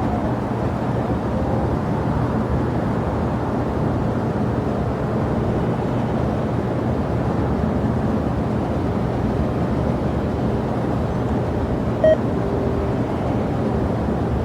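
Steady low rumble of jet aircraft engines, even in level throughout, with one brief beep about twelve seconds in.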